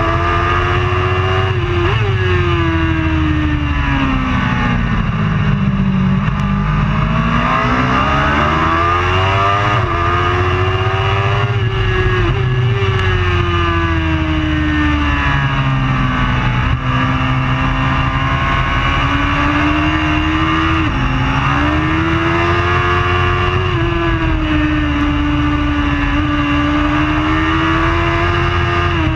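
Superbike engine at race pace: revs climb and fall with quick steps at gear changes. The pitch sinks low about six seconds in and climbs again, as for a slow corner, with lighter dips near twelve and twenty-one seconds.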